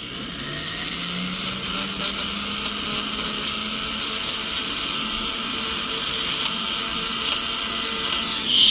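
Rotary tool running steadily with a silicone polishing wheel, smoothing the inside of a gold ring.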